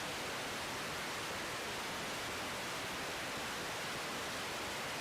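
Steady, even static hiss from an air-band radio feed between transmissions.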